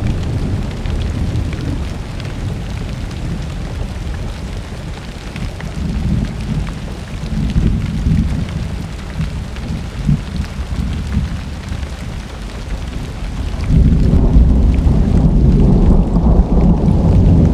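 Steady rain with rolling thunder. The low rumble swells and fades in the middle, then a louder, deeper peal of thunder comes in near the end and keeps rolling.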